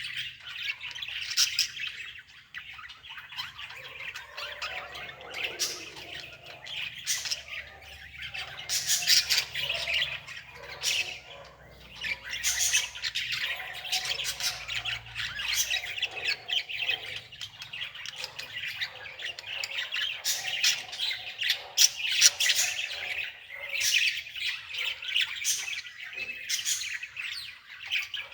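Many birds chirping and squawking together in a continuous, busy chatter of quick high calls.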